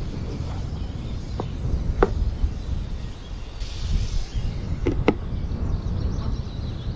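A spatula stirring cubed bottle gourd in a nonstick pan, with light clicks of the utensil against the pan, then a glass lid set on the pan with a clink about five seconds in, over a steady low rumble.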